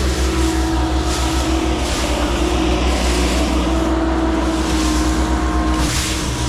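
Heavy equipment engine running steadily under work, with a slightly wavering tone over a low, even pulse; the note shifts about six seconds in.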